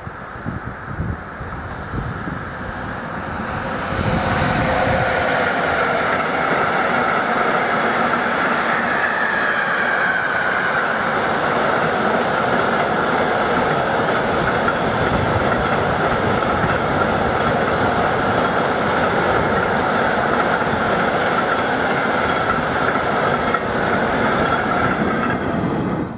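Electric train passing close by: the sound builds over the first few seconds, then a long loud steady run of wheel and rail noise with a held whine that dips slightly in pitch partway through, and it stops abruptly at the end.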